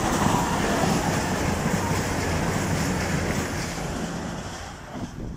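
Class 222 Meridian diesel-electric multiple unit passing, its underfloor diesel engines humming under the noise of wheels clattering over the rails. The sound is loudest at first and fades away near the end.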